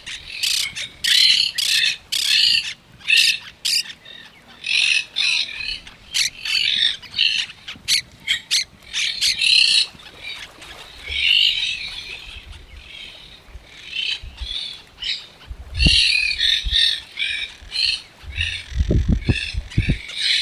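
Parrots squawking in quick, harsh calls, one after another, with a lull in the middle. A few low thumps come in the last few seconds.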